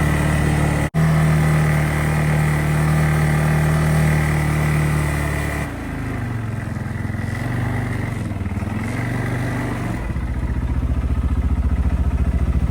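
Engine of a snow-clearing machine running under load. The engine note dips and recovers a few times around the middle, and from about ten seconds in it settles into an even throbbing beat. The sound cuts out for an instant about a second in.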